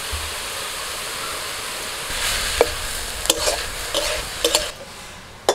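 Bathua greens frying in mustard oil in a kadai, a steady sizzle as the water the greens have given off boils away. A metal spatula scrapes and knocks against the pan several times in the second half, and the sizzle drops off near the end.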